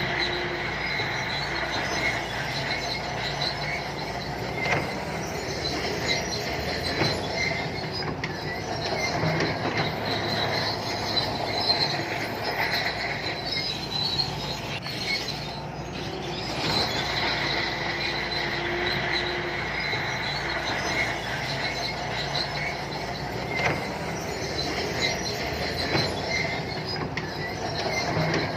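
SANTUI crawler bulldozer at work: the diesel engine runs steadily under load while the steel tracks squeal and clank, with a few sharp knocks.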